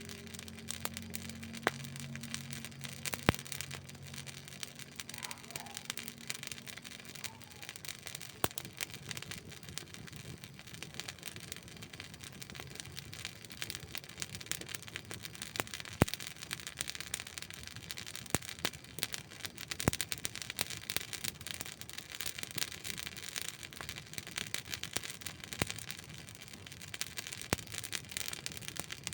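Campfire burning with a steady hiss and irregular crackles and pops of burning wood, a few of them sharper and louder. A faint low hum fades out over the first several seconds.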